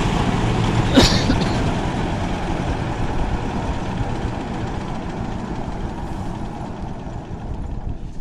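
Engine-driven rice threshing machine running with a steady hum, gradually getting quieter as the threshing finishes. A sharp knock about a second in.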